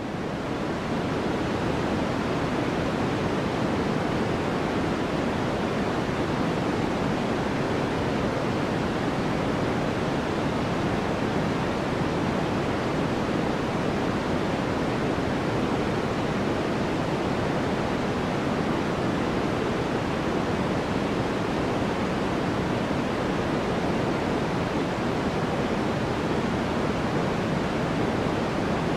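A steady white-noise track: an even, unchanging hiss, fuller in the lower range than the upper.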